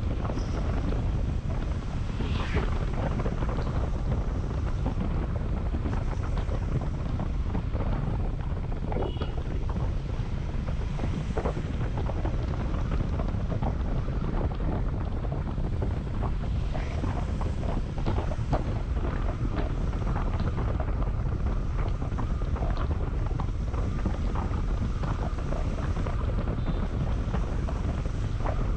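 Wind buffeting an action camera's microphone on a moving Honda CB150X motorcycle: a steady low rumble and rush, with the bike's engine and road noise underneath.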